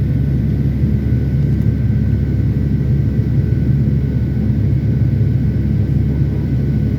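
Boeing 757-300 cabin noise heard from an economy seat with the engines running: a loud, steady, low rumble with a few faint steady whining tones above it.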